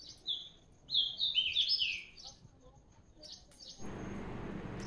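A small bird chirping: one chirp, then a quick run of short, falling chirps about a second in. A steady faint hiss comes back near the end.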